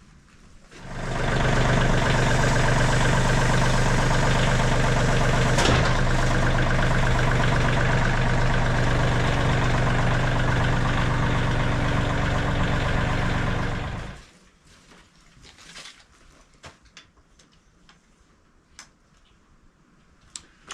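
MechMaxx SM32 bandsaw sawmill's engine running steadily, coming up about a second in and dying away after about 13 seconds.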